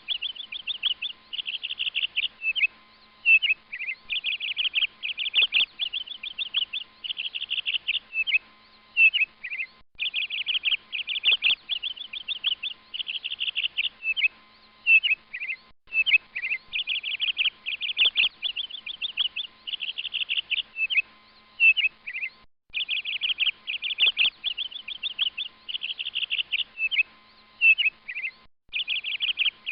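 A songbird singing in fast runs of high chirps and trills. The same phrase sequence repeats about every six seconds, with a brief break between repeats.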